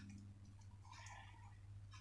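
Faint handling of sheets of paper: a few soft clicks and a brief rustle about a second in, over a steady low hum.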